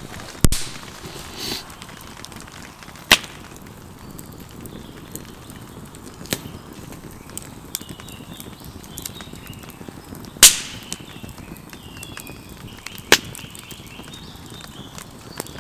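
Wood campfire burning with a few sharp, loud pops spaced several seconds apart, with faint bird chirps in the background.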